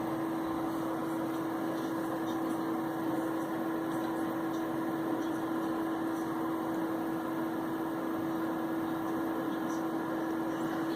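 Electric blower motor running steadily after spinning up, a constant air rush with a steady hum.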